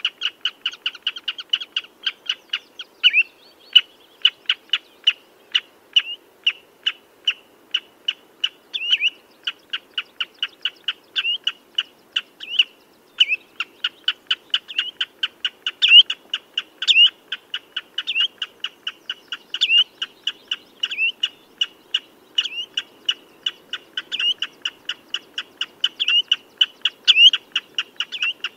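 Common redshank calling: a fast, steady run of short high notes, about three to four a second, some louder with a quick upward flick. There is a brief break about halfway through.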